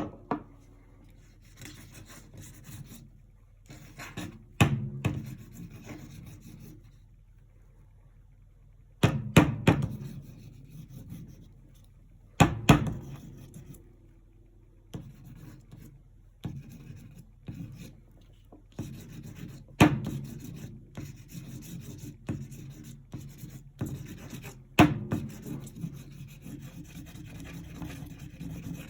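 Paintbrush strokes rubbing and scratching over a canvas in irregular spells, broken by several sharp knocks, the loudest of them about a third and two-thirds of the way through.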